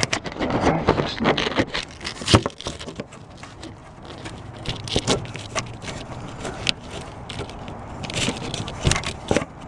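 Sandpaper scraping over the casting numbers on a cast-iron engine block, in irregular rubbing strokes with small knocks. The scraping is busiest in the first few seconds, then comes in scattered strokes.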